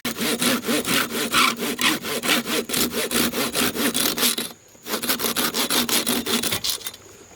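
Hand saw cutting wood in quick, even back-and-forth strokes, about three or four a second. It pauses briefly about halfway through, resumes, and stops shortly before the end.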